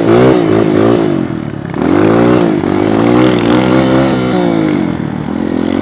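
Dirt bike engine in first gear revving up and easing off, with a short rise at the start and a longer swell in the middle.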